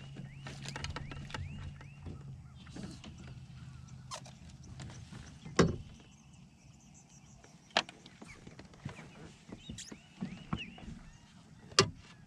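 Sharp knocks and clicks of gear against a fishing kayak, the loudest about five and a half seconds in and near the end. A low steady hum runs for the first five seconds and then stops.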